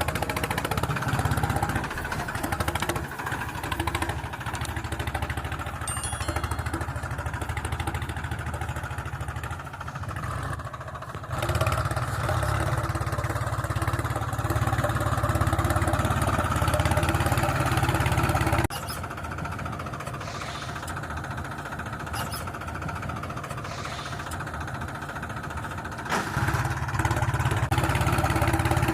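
Remote-control toy tractor running with a steady engine-like drone, getting louder for several seconds in the middle and again near the end.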